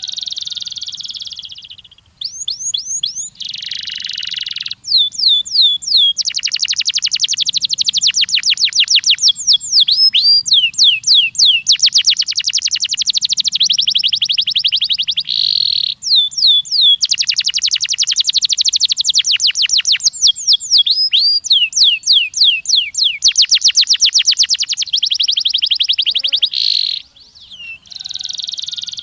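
Canary singing a long song of fast trills and rolls. Each phrase is a rapid run of repeated high notes, and the trill changes to a new one every few seconds, with brief breaks about 2, 5 and 16 seconds in.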